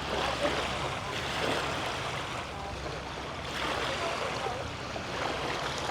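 Small sea waves washing onto the beach, a hiss that swells and fades a few times.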